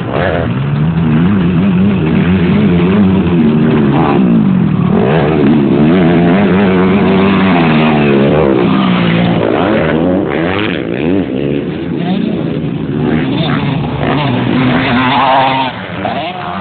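Motocross bike engines revving hard and easing off over and over, several overlapping engine notes climbing and falling in pitch as the bikes ride the track.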